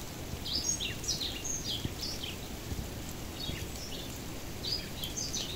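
Small birds calling in quick runs of short, high chirps, in two spells, over a steady low outdoor noise.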